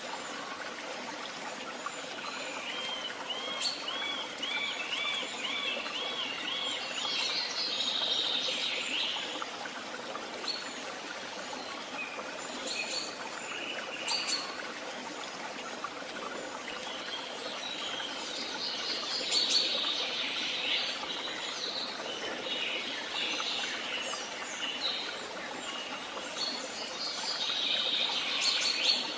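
Woodland songbirds singing over a steady background hiss. Early on one bird repeats the same quick looping note about ten times, and later several louder bursts of warbling song come every few seconds.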